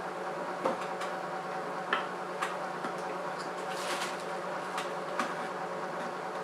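Scattered plastic clicks and knocks as a glass headlight lens is pressed onto its housing and its clips snap into place, over a steady mechanical hum.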